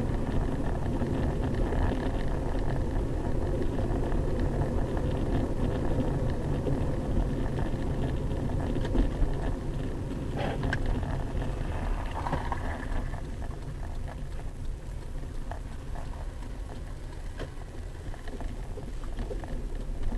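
Steady road and engine noise of a moving car, a low rumble with a hiss on top, easing slightly in the second half, with a few faint clicks about halfway through.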